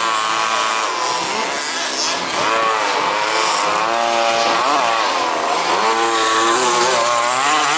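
Several 1/5th scale RC buggies' small two-stroke petrol engines racing, revving up and down in overlapping sweeps as the cars accelerate, brake and pass.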